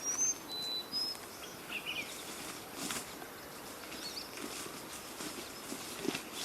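Forest ambience: short whistled bird notes in the first second, a few smaller chirps after, and a couple of faint clicks over a steady background hiss.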